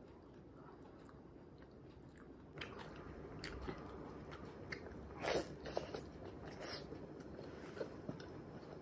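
Close-miked eating of sunny-side-up fried egg. After a quiet couple of seconds come wet chewing and bites with a few sharp crunchy clicks, loudest a little past the middle.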